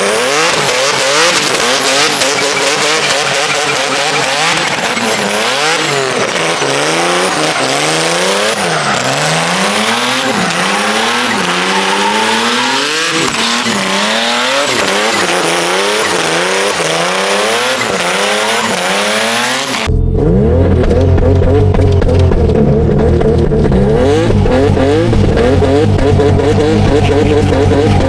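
Turbocharged Infiniti G37's V6 engine revving up and dropping back again and again while drifting, with tyres squealing. About two-thirds of the way through, the sound changes abruptly: the high hiss falls away and a deeper, heavier engine drone takes over.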